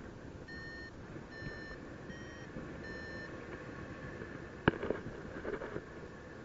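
Paraglider variometer beeping four times in about three seconds, the beeps it gives when the glider is climbing in lift, over a steady rush of wind noise. A single sharp knock about four and a half seconds in.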